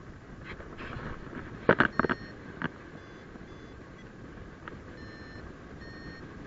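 Paragliding variometer giving short, high electronic beeps, a few at a time, which signal that the glider is climbing. Under them is steady wind noise on the microphone, and a few sharp knocks come about two seconds in.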